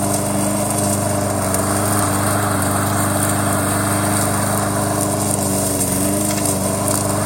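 Lawn mower engine running steadily, with a slight dip in pitch about six seconds in.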